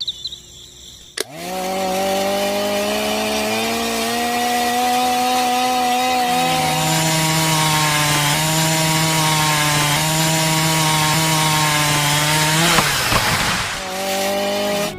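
A small motor starts suddenly and runs with a steady whine that creeps up in pitch. About six and a half seconds in, it drops to a lower pitch, as if it had been put under load. Near the end it winds down with a falling pitch.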